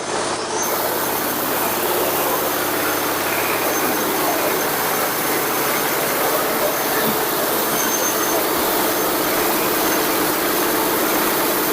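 Silage baler running on its ZS1100 single-cylinder diesel engine, a steady machine noise at an even level.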